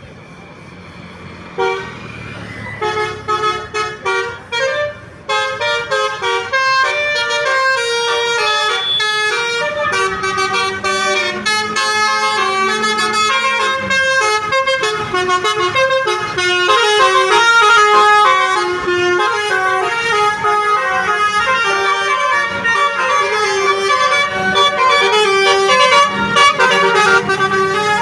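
Multi-tone musical vehicle horn playing rapid runs of stepped notes, like a melody, starting about two seconds in and going on throughout, over a low steady hum.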